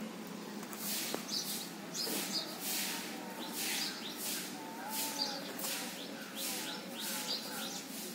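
Birds chirping: short harsh calls repeating about twice a second.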